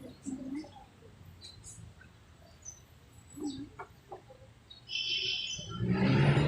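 High-pitched bird calls about five seconds in, after a stretch of faint scattered sounds, followed near the end by a louder rough noise.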